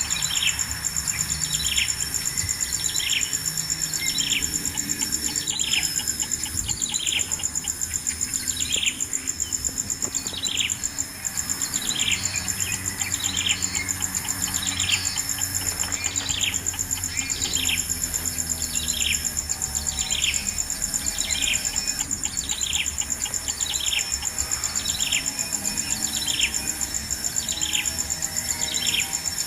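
A bird repeating a short, falling call about once a second, over a steady high-pitched insect buzz.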